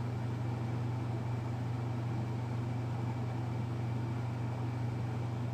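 Steady low hum with faint even hiss and no distinct events: room tone.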